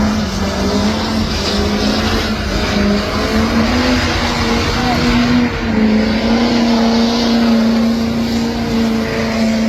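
Diesel pickup truck engine running loud at high revs, a steady droning note that steps slightly in pitch about halfway through.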